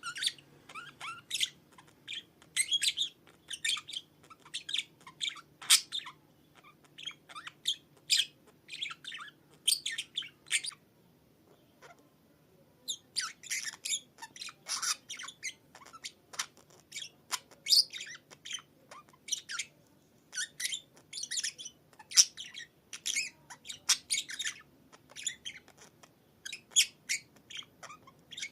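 Budgerigar chattering and warbling in fast runs of short, high chirps and squawks, pausing for a couple of seconds about eleven seconds in before starting up again.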